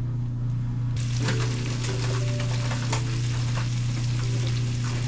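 Chicken pieces frying in a pan: a crackling sizzle that starts about a second in, over a steady low hum.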